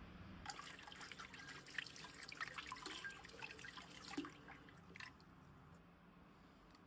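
Water running from a kitchen tap and splashing in a sink, starting about half a second in and stopping about four and a half seconds in, followed by a single click.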